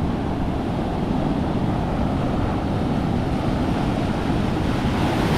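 Strong ocean surf: a steady wash of breaking waves and white water, with wind buffeting the microphone.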